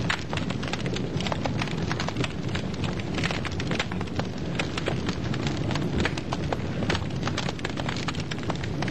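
Wood fire crackling in a fireplace: many irregular pops and snaps over a steady low rumble of the flames.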